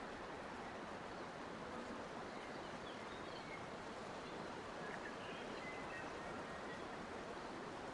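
Steady, even hiss of outdoor nature ambience, with a few faint, short bird chirps scattered through it.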